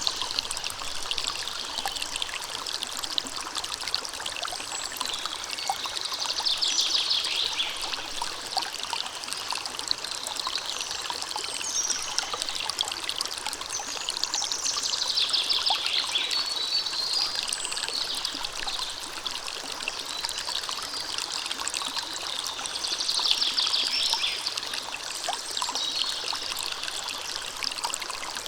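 A river or stream running steadily over stones, a continuous rushing and trickling that briefly swells with a brighter, higher rippling about four times.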